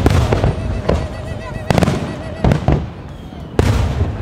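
Fireworks display: aerial shells bursting in a series of loud bangs, about one a second, each with a low rumbling tail.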